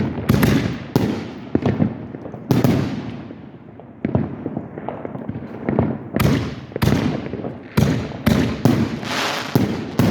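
Fireworks bursting: about a dozen sharp bangs, each trailing off in a rumbling echo. A lull comes a few seconds in, then the bangs come thick and fast toward the end.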